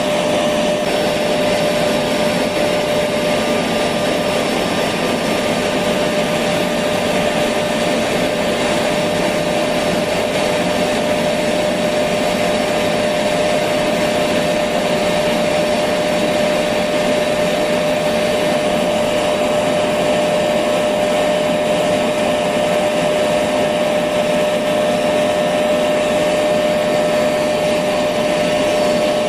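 Electric vacuum cleaner running steadily: an even rushing noise with one constant whining tone, never changing in speed.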